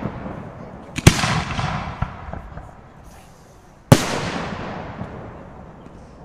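Aerial firework shells bursting: two loud bangs about three seconds apart, the first about a second in and the second near four seconds, each followed by a long rumbling echo that fades away. A smaller crack and a brief crackle come between them.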